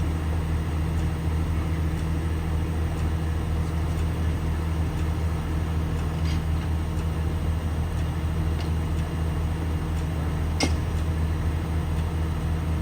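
A large engine running steadily at constant speed, a deep even hum with no revving, with a sharp click about two-thirds of the way through.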